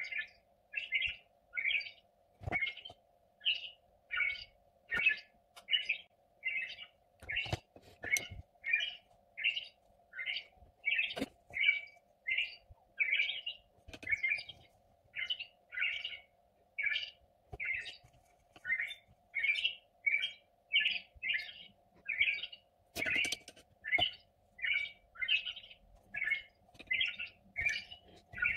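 A bird chirping over and over at an even pace, about one and a half short chirps a second, without a break, over a faint steady hum.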